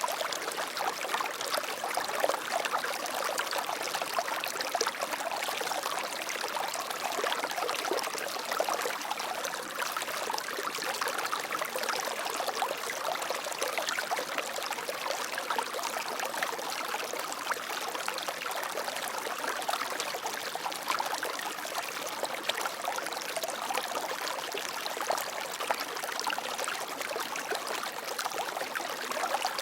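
Water flowing steadily with a splashing, trickling rush, like a small stream or cascade.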